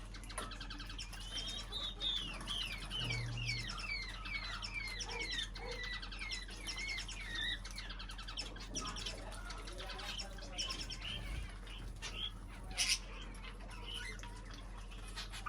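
Small pet birds chirping: a quick run of short, sliding chirps for several seconds, then scattered calls. About 13 seconds in there is one brief sharp rustle or click.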